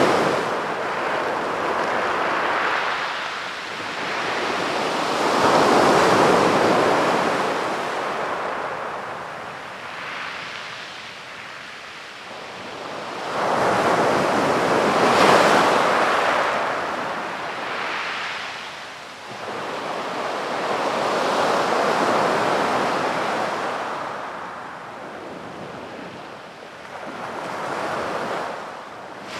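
Sea waves breaking and washing up a sandy beach, the surf swelling and falling back every few seconds, with the strongest surge about halfway through.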